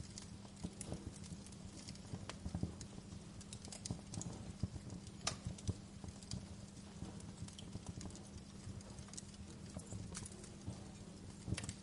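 Wood fire in a fireplace crackling, with irregular sharp pops and snaps over a low steady rumble, one brighter snap about five seconds in.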